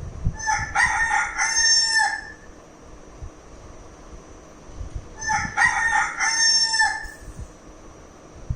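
Rooster crowing twice, each crow about two seconds long and about five seconds apart.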